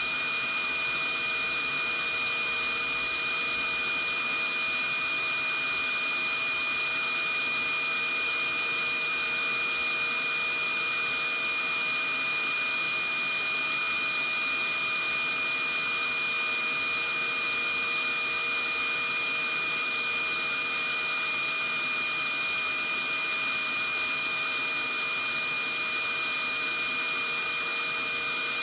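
Vacuum cleaner motor running steadily, a constant rushing noise with a high, steady whine.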